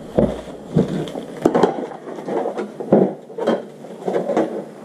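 Kit parts being handled and set down: about six separate knocks and rattles with some rustling between them.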